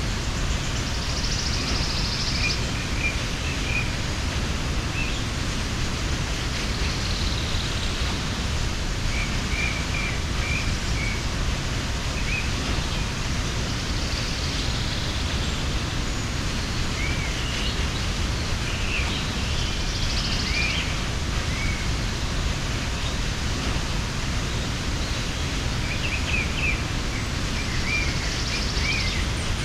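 Steady rush of a mountain waterfall, with small birds chirping now and then above it.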